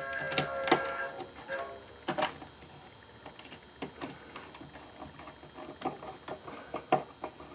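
Scattered light clicks and knocks of the mechanism and screws of an old wooden hand-crank coffee grinder being handled and fitted back together. Background music fades out over the first second or two.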